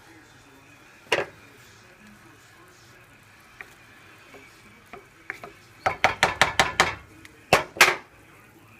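Clinks of a utensil against a cooking pot: a single clink about a second in, a quick run of about eight clinks around six seconds in, and two more near the end.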